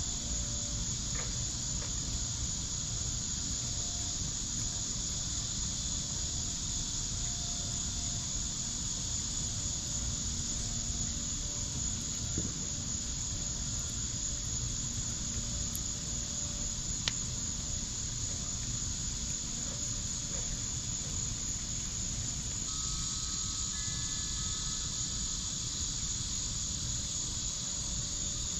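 Steady high chorus of night insects, with a few sharp pops from the fire pit, the clearest about 17 seconds in.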